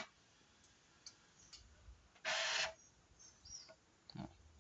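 Air control unit (ECA) of a Scania R440 letting off one short hiss of compressed air, about half a second long, a little over two seconds in, during a repeated bleed test. Faint clicks come before and after it.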